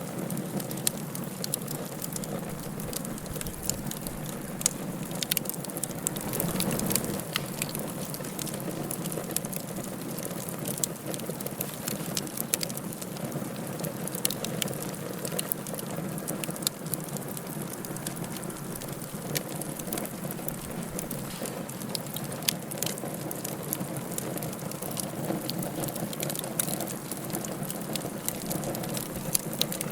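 Wood fire burning in a fireplace: a steady hiss and low rustle with frequent sharp crackles and pops, getting a little louder about seven seconds in.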